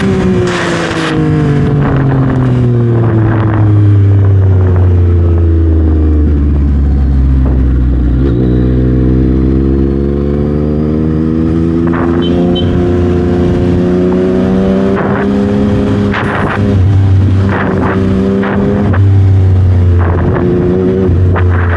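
2021 Yamaha MT-09's 890 cc inline-three, breathing through a full Dominator exhaust system, running under way. Its pitch falls slowly for several seconds as the bike slows, then climbs steadily as it accelerates, and it changes in level again near the end. There are a few brief sharp cracks, around the middle and near the end.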